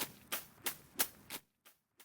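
A run of sharp knocks, evenly spaced about three a second, stopping about a second and a half in, then two fainter knocks.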